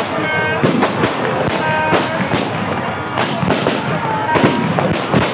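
Aerial fireworks going off in rapid succession: a string of sharp bangs and crackles.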